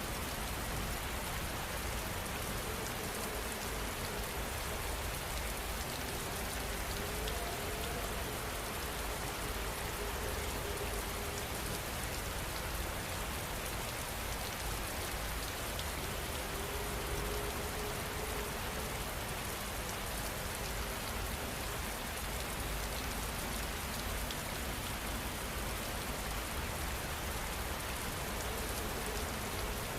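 Heavy rain falling steadily, a dense even hiss of drops with no let-up. A faint low tone drifts in and out twice beneath it.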